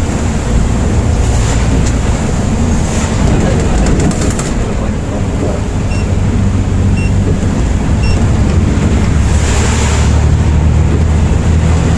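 Inside a moving Volvo B8R coach: a steady low drone of engine and road noise. Short high beeps come about a second apart near the middle.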